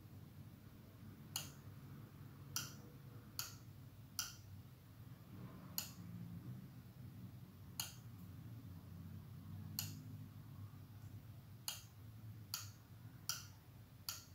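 Latching relay on a home-made switching board clicking over and over as a push button toggles it on and off: about eleven sharp, separate clicks at irregular intervals, over a faint low hum.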